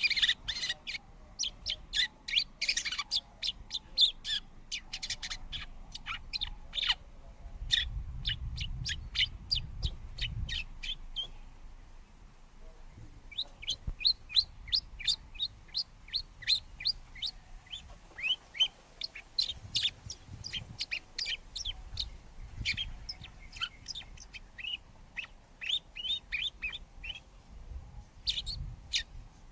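Birds chirping: a rapid run of short, high chirps that pauses for about two seconds near the middle. A low rumble comes in about eight seconds in.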